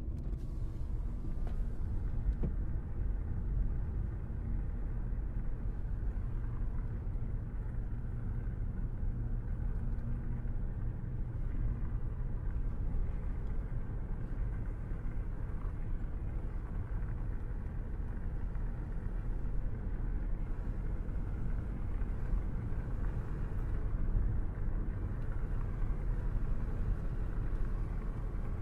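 A car driving along a road: a steady low rumble of engine and tyre noise that holds even throughout.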